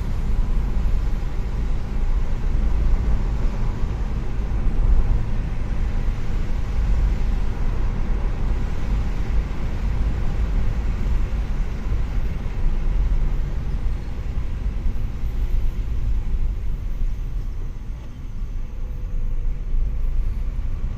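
Steady low rumble of a moving road vehicle, even throughout.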